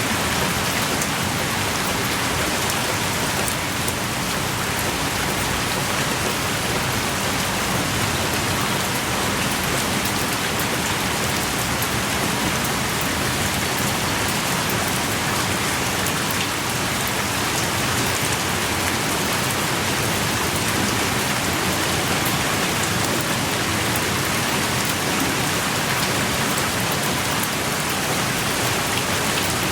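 Heavy rain pouring steadily, dense and unbroken, with fine individual drop ticks on top.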